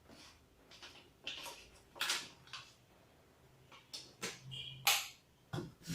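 Handling noises: a few short knocks, clicks and rustles as the purifier adaptor and its wires are picked up and set out for testing.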